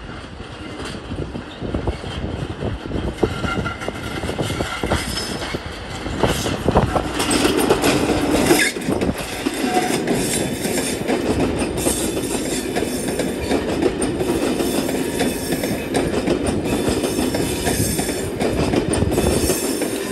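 A train running past on the rails, its wheels rumbling and clicking over the rail joints, with a thin high squeal in the first few seconds. The sound builds over the first several seconds, then holds steady.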